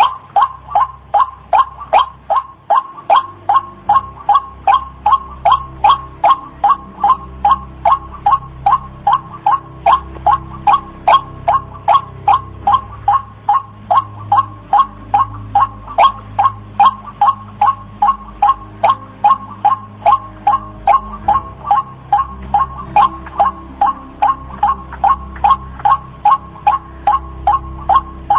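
White-breasted waterhen calling: a long, monotonous string of short notes repeated about three times a second, over a low background hum.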